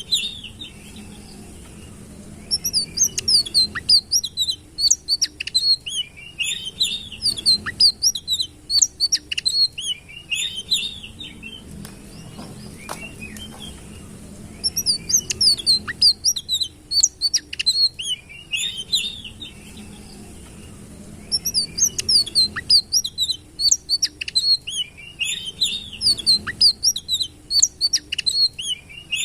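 Sitrun songbird singing rapid, high twittering phrases in bouts of several seconds, separated by short pauses.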